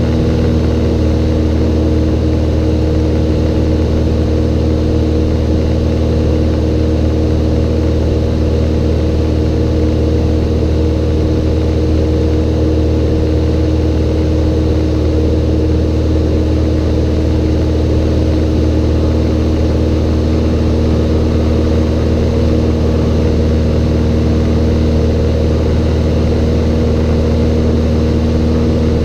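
Cessna 182's six-cylinder piston engine and propeller running steadily at a constant power setting, a loud, even drone with no change in pitch.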